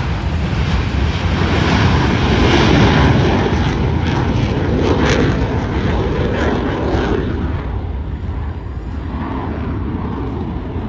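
Blue Angels F/A-18 Super Hornet jets passing over, a loud, rushing jet roar. It swells to a peak a few seconds in and then fades away.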